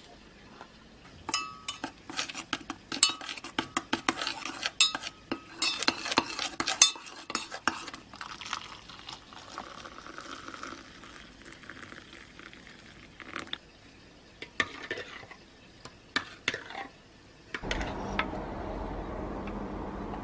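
Kitchen utensils clinking against dishes: a spoon stirring and tapping in crockery, with rapid clinks for several seconds and then scattered clicks. Near the end a steady low hum starts.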